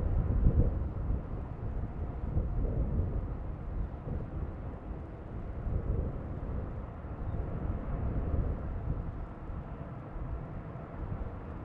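Low, fluctuating rumble of a jet airliner's engines mixed with strong wind buffeting the microphone.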